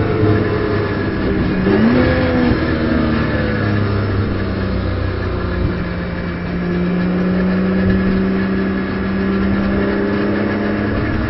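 Racing car engine heard from the cockpit: the BMW M240i Racing Cup's turbocharged straight-six. Its note sags, jumps up sharply for a moment about two seconds in, then settles and holds a steady pitch under load for the rest.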